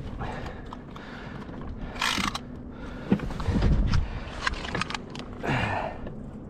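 Handling noises on a kayak: scattered knocks and low thumps, with two short splashing or rustling hisses, about two seconds in and again near the end, as a large striped bass is wrestled onto a bump board to be measured.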